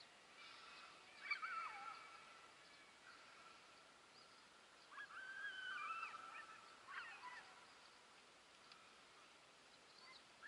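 Faint birds calling in short, gliding calls: about a second in, again around five to six seconds, and once more near seven seconds, over quiet outdoor background.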